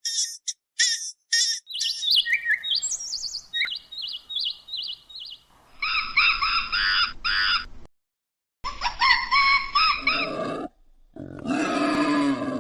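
A string of short animal-call clips cut one after another: quick high chirps, a falling run of notes and a repeated chirping phrase, then louder calls with rich overtones, and near the end a lower, drawn-out moaning call.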